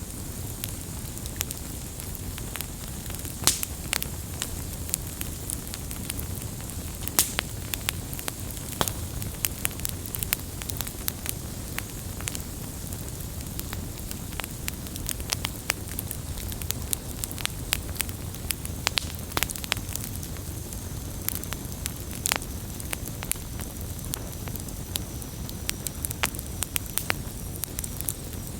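Wood fire burning steadily, with a low rumble under frequent irregular sharp crackles and pops.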